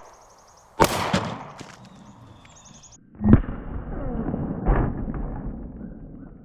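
Two pistol shots from a Sig Sauer P365, about two and a half seconds apart, the second louder. Each sharp report is followed by a trailing rumble.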